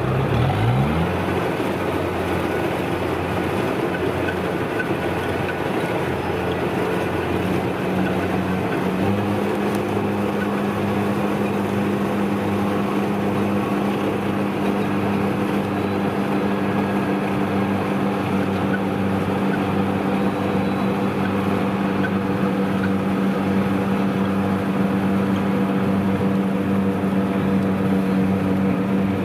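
Kubota DC-93 rice combine harvester's diesel engine running continuously under work. Its pitch shifts in the first second, then it settles into a steady, firmer hum from about eight or nine seconds in.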